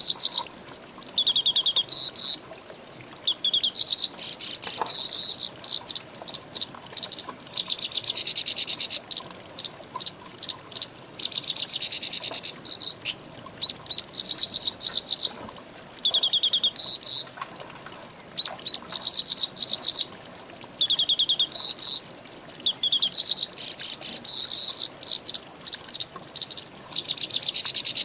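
A songbird singing quick runs of short, high chirps in phrases repeated over and over, over a steady, high-pitched insect buzz.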